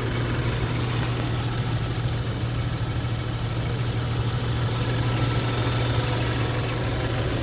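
2013 BMW 335's turbocharged straight-six engine idling steadily with an even, low hum.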